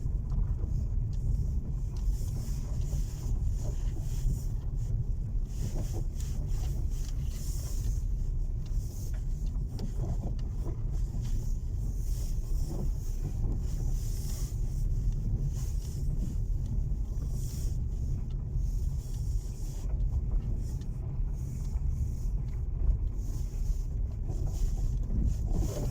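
Car driving, heard from inside the cabin: a steady low rumble of road and tyre noise, with a few faint knocks from the front suspension.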